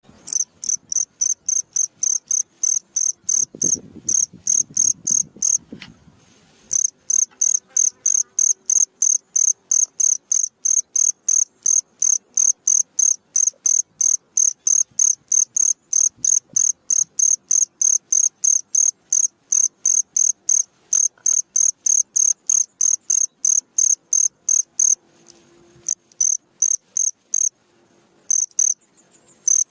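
Cricket chirping: a high-pitched chirp repeated steadily about three times a second, pausing briefly about six seconds in and again near the end. A faint low rumble sits under it around four seconds in.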